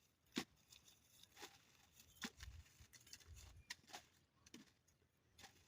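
Near silence with faint, scattered short rustles and taps, about seven in all, from maize cobs and a sack being handled. A brief low rumble comes in the middle.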